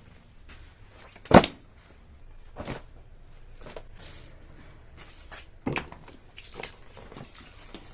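A few separate knocks and clunks of objects being handled and set down, the loudest about a second and a half in and another sharp one near the six-second mark.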